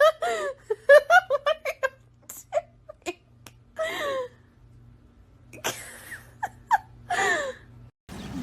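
A person laughing in a run of quick bursts, then a few more short laughs and cries.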